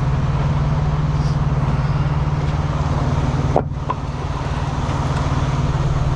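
Freightliner truck's diesel engine idling steadily nearby, a low even hum that dips briefly about three and a half seconds in.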